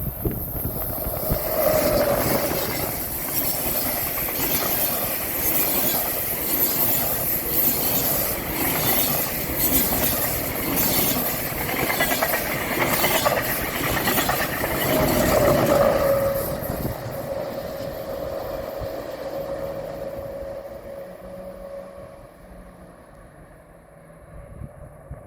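A train passing close by, its wheels clattering over the rail joints with a steady whine above the rumble. About sixteen seconds in it begins to fade away as it recedes.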